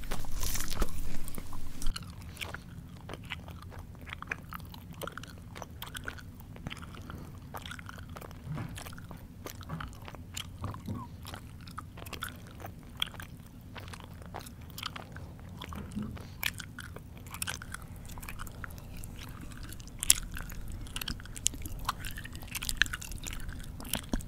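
Close-up chewing of crunchy food: loud crunching bites for the first two seconds, then quieter chewing with many small clicks and mouth noises.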